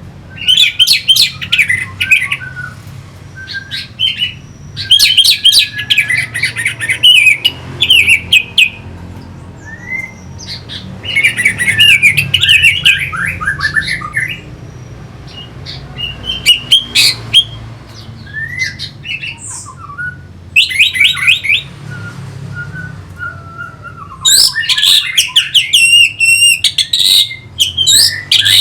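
Orange-headed thrush singing: loud bursts of fast, varied whistled phrases lasting one to four seconds, separated by short pauses, over a faint steady low hum.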